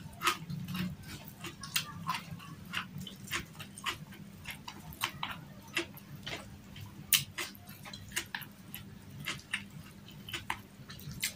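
Close-miked chewing and lip smacking of a person eating a meal with her fingers, with irregular sharp wet clicks and smacks a few times a second.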